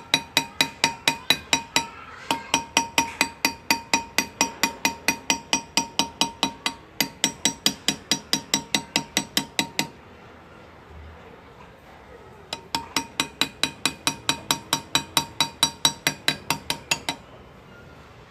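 Hand engraving on motorcycle metal: a small engraving hammer tapping a hand graver at a steady rhythm of about four strikes a second, each tap ringing briefly. The taps come in runs, with a short pause about two seconds in and a longer one around the middle.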